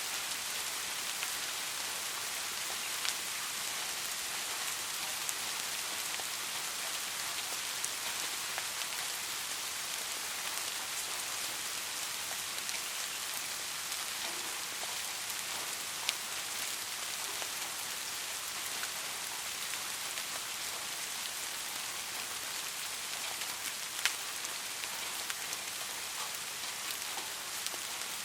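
Steady rain falling, an even hiss with a few sharper single drop hits now and then.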